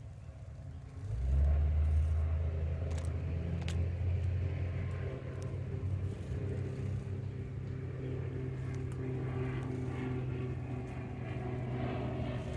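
A motor or engine running steadily, its low rumble coming in about a second in, with a steady hum of several tones.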